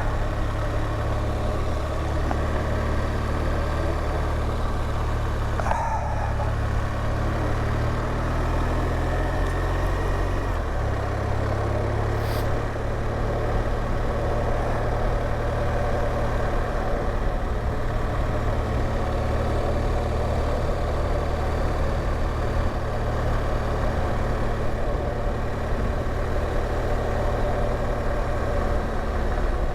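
BMW R1200GS Adventure's boxer-twin engine running steadily while riding, with a brief rise in pitch about six to ten seconds in.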